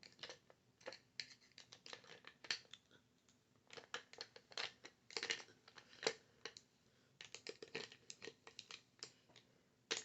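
Soft, irregular clicks, taps and scratchy rustles of makeup brushes being handled and sorted, coming in clusters with short pauses about three and a half and seven seconds in.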